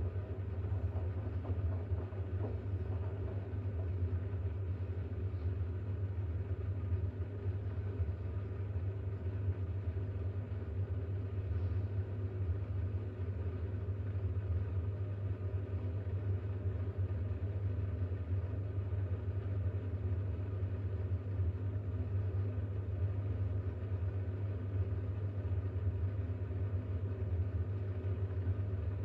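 Bosch WAX32GH1 front-loading washing machine running with a steady low hum during its drain and load-distribution stage before the spin.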